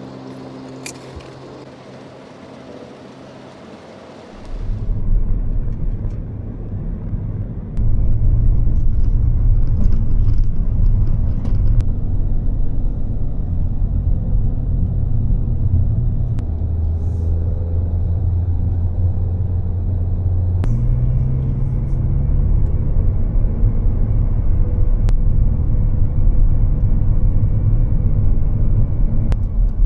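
Mazda3 driving: a heavy, low road-and-engine rumble that sets in about four seconds in and grows louder about eight seconds in.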